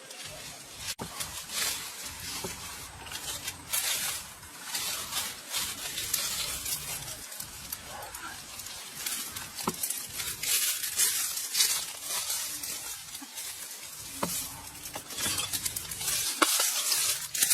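Food sizzling in a pan while it is stirred, with short clicks and ticks of the utensil against the pan.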